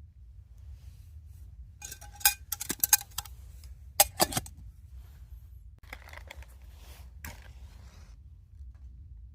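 Metal camp cookware clinking and being handled: a quick run of sharp ringing clinks about two seconds in, two more about a second later, then softer rattling.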